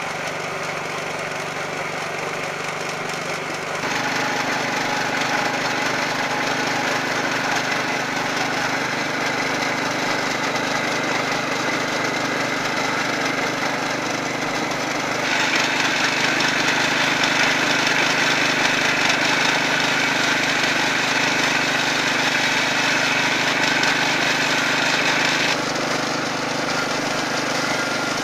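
Small gas-fuelled engine driving a coconut grating machine, running steadily; it steps up in level about four seconds in. For about ten seconds in the second half a harsh rasping noise rides over it as coconut is grated on the spinning drum.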